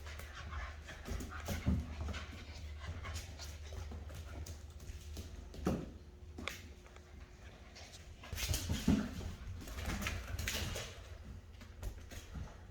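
Rottweiler puppies playing, with a few short vocal sounds among scattered small clicks and scuffles.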